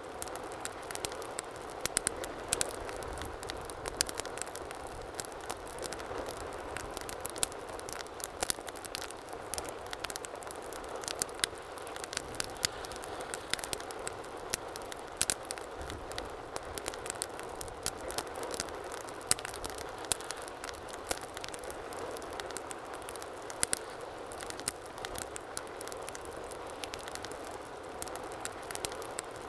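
Wood fire burning in a fireplace with a steady hiss, and irregular sharp crackles and pops several times a second.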